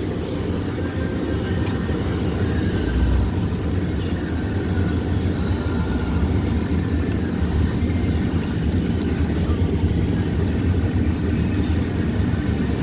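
Mercury Montego sedan driving slowly, heard from inside the cabin: a steady low rumble of engine and tyres, with a few light ticks.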